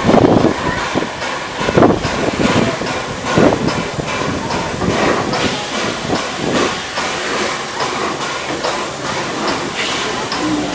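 Peppercorn A1 Pacific steam locomotive No. 60163 Tornado hauling a train of empty coaches: exhaust beats and steam hiss, with the wheels clattering over the rail joints. The beats are loudest about the first two seconds and settle into a steadier clatter.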